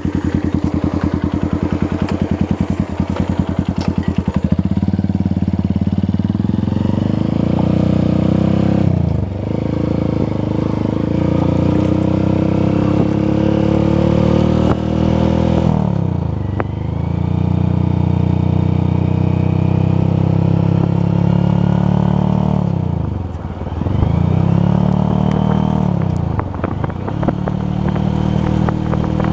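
Honda Verza 150's single-cylinder engine idling with an even putter, then the motorcycle pulls away, its engine note climbing and dropping at each upshift, about four times.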